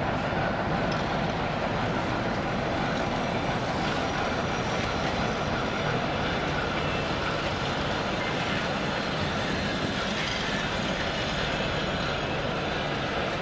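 Passenger coaches moving slowly along the track behind a ChME3T shunting diesel locomotive: a steady, even rumble of rolling stock.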